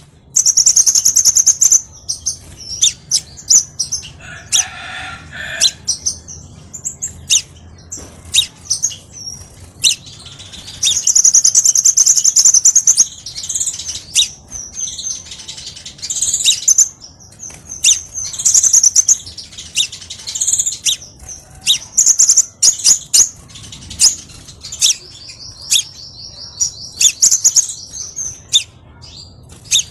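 Crimson sunbird (kolibri sepah raja) singing: high-pitched, rapid chittering phrases and sharp chirps, with long fast trills about eleven seconds in and again near the end, and a lower call about four seconds in.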